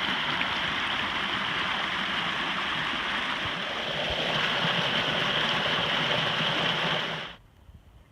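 Spring water flowing out into the river, a steady rushing and gurgling stream; it cuts off suddenly about seven seconds in.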